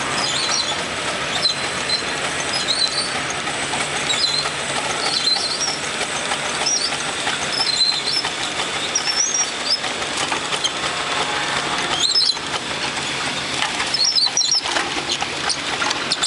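Steam traction engine running as it is driven: a steady mechanical noise with short, high squeaks recurring every second or two.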